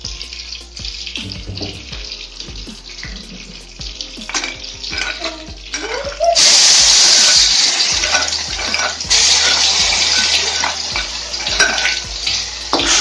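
Ground chilli-and-shallot spice paste sizzling in hot oil in a wok. It hits the oil with a sudden loud sizzle a little past halfway and keeps sizzling, after some light scraping and clinks of the stone mortar and spatula.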